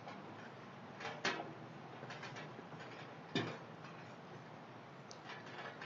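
Light rain: a steady soft patter with irregular drops ticking onto surfaces close by, and two louder taps, about a second and about three and a half seconds in.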